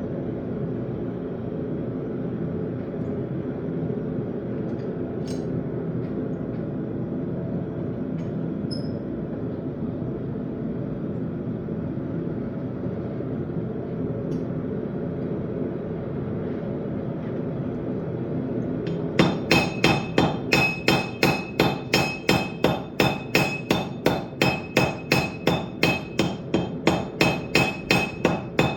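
A steady low rumble, then about nineteen seconds in, a hammer starts striking steel on an anvil, about three blows a second, each with a high metallic ring.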